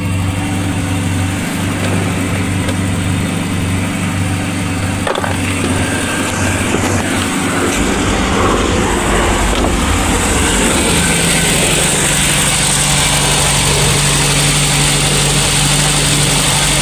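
Petrol engine of a VW Golf/Polo with Bosch MP9 single-point injection idling steadily after a cold start, the idle settling out rather than hunting. A deeper hum joins about eight seconds in.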